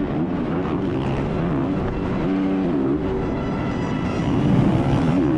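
Motocross bikes racing, their engines revving up and down repeatedly as the riders work the throttle through the track.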